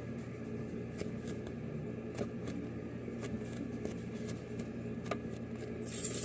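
Faint handling sounds of a foam squishy toy in the hands: scattered soft clicks and rustles over a steady low hum, with a brief louder rustle near the end.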